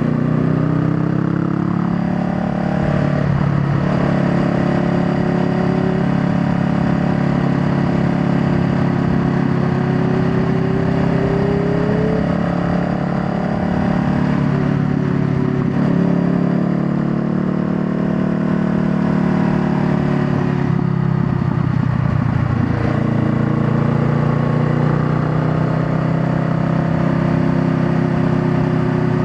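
Honda Rebel 500's parallel-twin engine running under way. Its note rises in pitch as it pulls and drops back several times, with short breaks in the note about 3.5, 15.5 and 21 to 22 seconds in.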